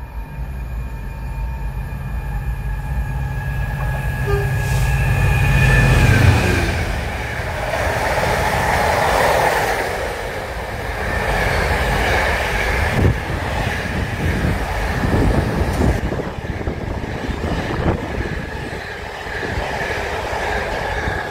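Class 66 diesel locomotive with a two-stroke V12 approaching and passing at speed, its low engine drone building to a peak about six seconds in over a steady high whine. Then a long train of container flat wagons rattles past, wheels clicking over the rail joints.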